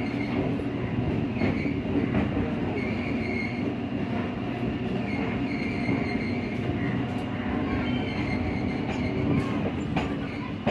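Passenger train running along the track: a steady rumble and rattle, with a few sharp clicks.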